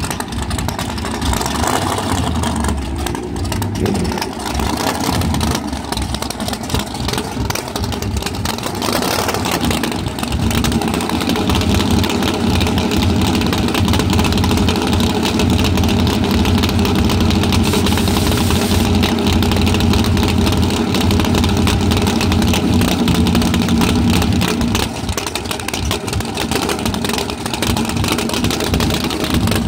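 Drag-car engines running loudly: a race car's engine early on, then a blue Chevrolet Nova drag car's engine idling steadily, easing off a little near the end.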